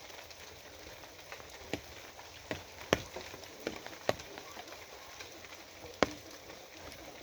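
Steady rain falling, with heavy single drops striking a nearby surface as sharp, irregular taps about six times.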